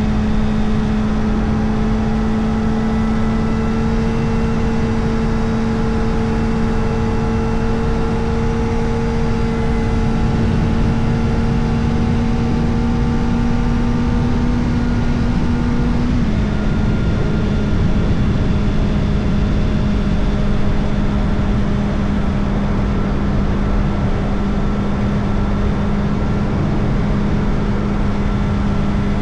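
Kawasaki Ninja ZX-4RR's 399 cc inline-four running through an Arrow Indy Race Evo titanium exhaust with the dB killer fitted, holding a steady high-revving cruise. Its pitch creeps up slightly, then dips a little about halfway through and holds steady, over a constant low rush of wind and road noise.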